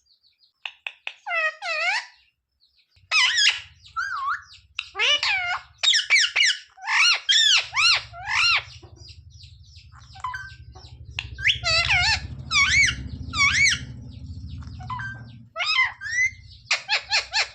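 Pet parakeet calling: a long string of short, harsh, arching squawks in quick runs with brief pauses.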